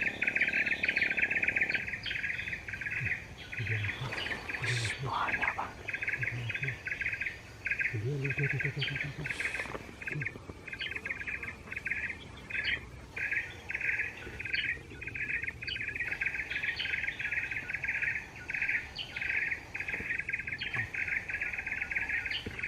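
Insects chirring in a high, continuous trill, broken into short pulses and bursts with brief gaps.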